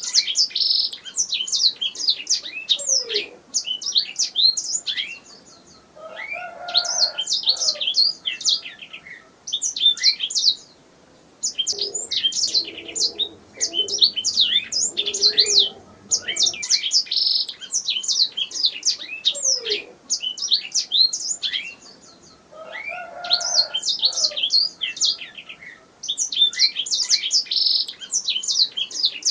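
Domestic canary singing: phrases of rapid, high trills and chattering notes a few seconds long, broken by short pauses, with lower warbling notes mixed in at times.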